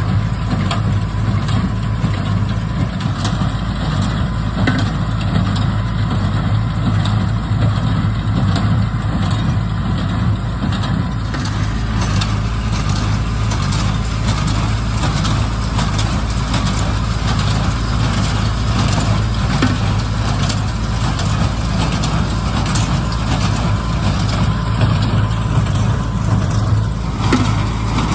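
Tractor engine running steadily at a constant speed, with light ticking and rattling from the machinery over a strong low hum.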